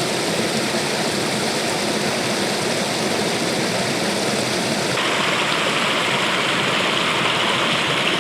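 Water rushing over a small waterfall, a steady noise that turns brighter and hissier about five seconds in.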